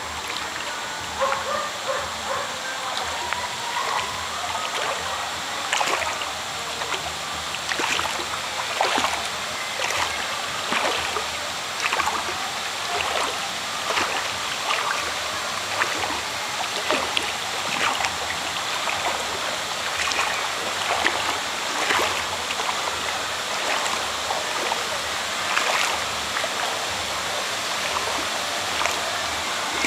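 Running water with repeated splashes, roughly one a second.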